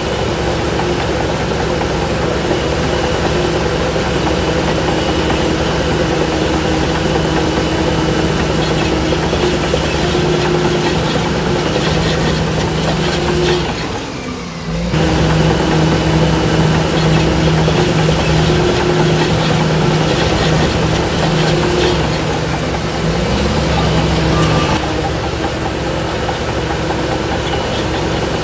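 Heavy diesel engine of earthmoving machinery running steadily, with a short break about halfway before it comes back slightly louder.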